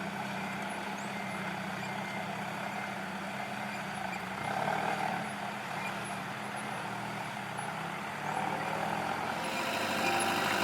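Heavy diesel earthmoving machinery running steadily, swelling briefly twice; music begins near the end.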